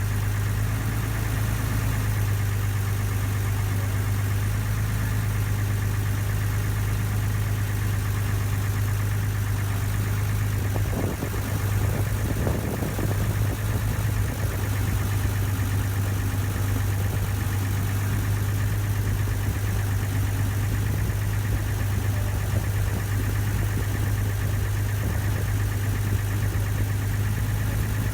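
Ferry boat's engine running steadily with a constant low hum, heard from on board.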